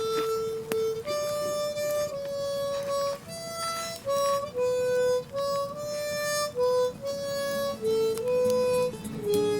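Harmonica playing a slow single-line melody of held notes, with lower accompaniment notes coming in near the end.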